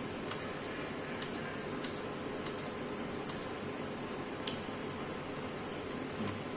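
Short electronic key-press beeps, six of them at uneven intervals over about four and a half seconds, each a click with a brief high beep, over a steady low hum of machine and room noise.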